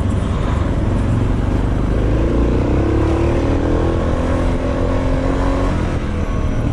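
Suzuki DR650's big single-cylinder engine running while the bike is ridden at low speed, its pitch rising a little about halfway through as it picks up speed.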